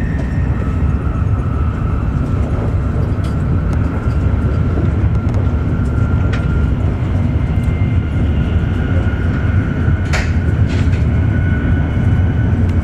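Interior running noise of an E7 series Shinkansen at speed, heard inside the passenger cabin: a steady low rumble with a faint high whine over it. A few short clicks stand out, one about six seconds in and one about ten seconds in.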